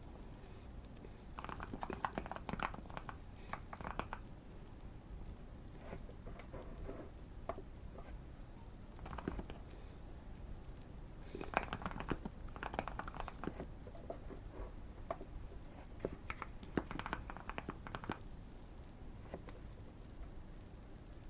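Typing on a modded Keychron Q1 mechanical keyboard, in several bursts of rapid keystrokes with short pauses between. Faint, sparse fire crackling sits underneath.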